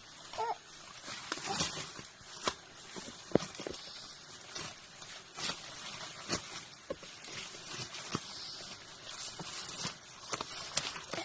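Footsteps through forest undergrowth: irregular snaps of twigs and rustling leaves, about one sharp snap a second.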